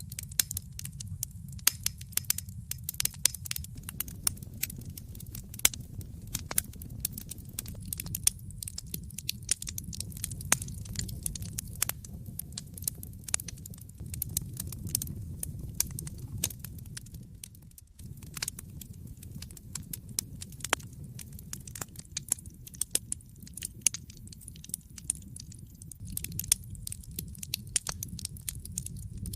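Wood fire in a fireplace crackling: many irregular sharp pops and snaps over a steady low rumble of the flames. The level dips briefly about eighteen seconds in.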